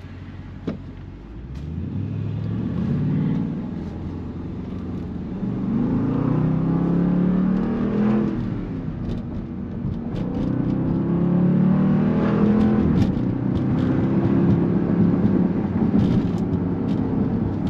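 2019 Jeep Grand Cherokee SRT's 6.4-litre HEMI V8, through aftermarket valved mufflers and heard from inside the cabin, accelerating through the gears. The exhaust note climbs in pitch and falls back three times, getting louder as the Jeep picks up speed.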